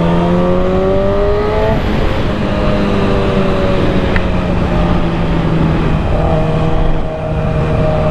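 Motorcycle engine accelerating under way, its pitch rising for about two seconds, dropping at a gear change, then running at a steadier pitch.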